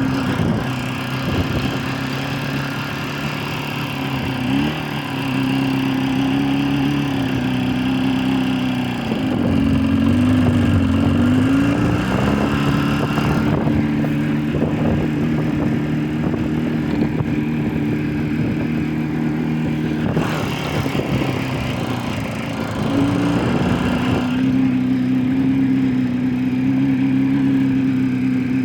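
Jawa 350 two-stroke twin motorcycle engine idling steadily. Its speed rises briefly a few times and dips and wavers once before settling back to a steady idle.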